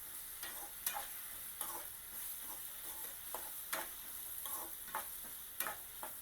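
Chopped onion and tomato sizzling in oil in a pan, with a spoon clicking and scraping against the pan at irregular moments as it is stirred.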